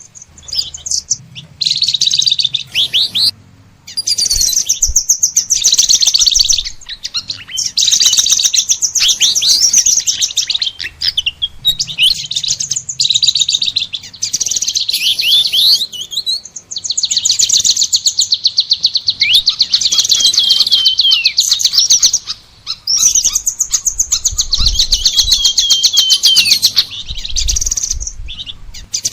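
Small songbirds singing close up: long, fast, high-pitched trills and twittering in bursts, separated by brief pauses.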